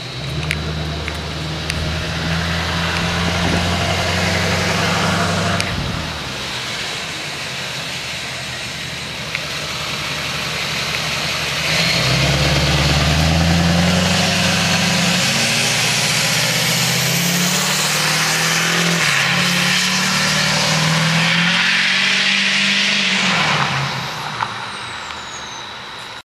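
Turbocharged Duramax V8 diesel engine of a tuned Chevrolet Express van running under load. It gets louder about twelve seconds in, its pitch stepping up and down, and drops away near the end.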